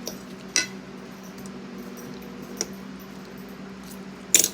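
A few light clicks and knocks of tableware being handled, with a sharper clatter near the end, over a steady low hum.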